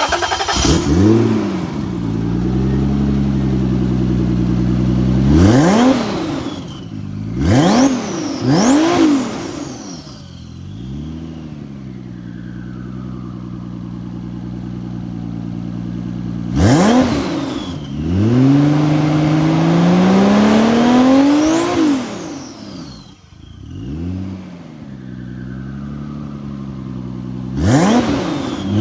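Toyota 1G-GTE 2.0-litre twin-turbo inline-six idling and being blipped about half a dozen times, the revs climbing and dropping back quickly to idle, with one slower, longer climb in the second half.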